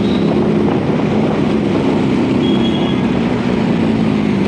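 Motorcycle engine running steadily while riding at speed, with wind rush on the rider's microphone.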